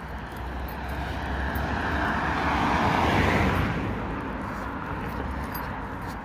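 A vehicle passing by: its noise swells to a peak about three seconds in and then fades away, over a low rumble.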